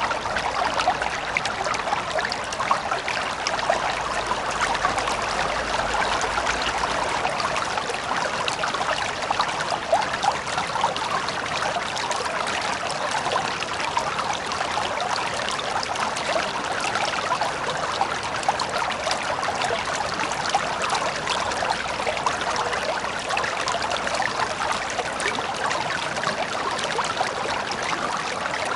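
A river running over stones, with steady babbling and splashing.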